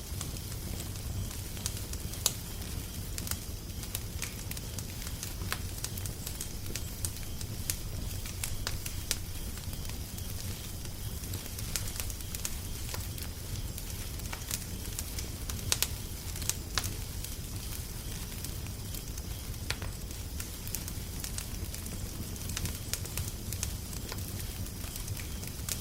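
Wood fire crackling steadily, with irregular sharp pops and snaps, a few louder, over a low rumbling hiss.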